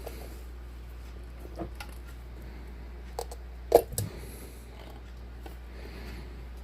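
A few small clicks and knocks from hands handling a snow globe and its figurine base while fitting the base back in, with one louder knock about four seconds in. A steady low hum runs underneath.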